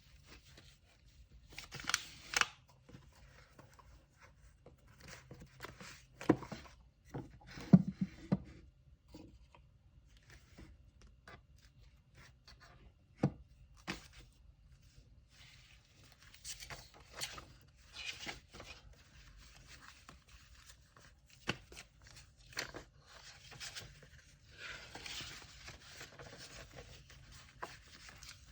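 Packing supplies handled by hand on a tabletop: paper and tape rustling and tearing, with scattered sharp knocks of items being set down, and a longer stretch of rustling near the end.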